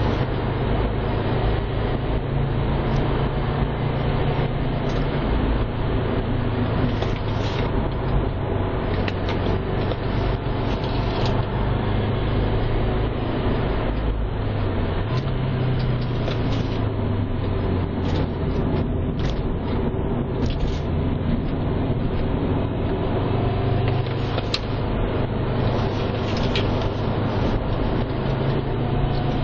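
2011 Subaru WRX's turbocharged flat-four engine droning steadily, heard from inside the cabin, with tyre and road noise underneath. The engine pitch rises and falls slightly a few times.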